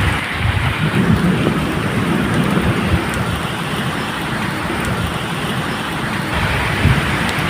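Steady medium rain falling, with low rumbles of thunder underneath, strongest about a second in and again near the end. A few sharp drip ticks are heard.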